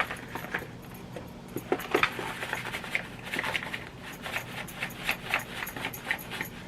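A shaker container of onion powder being shaken and tapped over the pot in a quick, irregular run of small rattles and taps, to free powder that has clumped from the steam.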